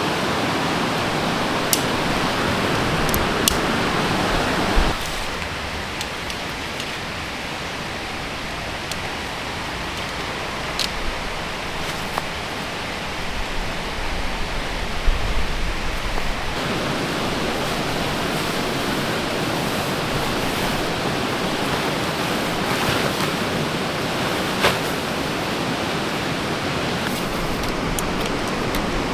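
A stream's flowing water makes a steady rushing hiss, with a few light clicks scattered through it. The rush drops for about ten seconds from around five seconds in, then comes back.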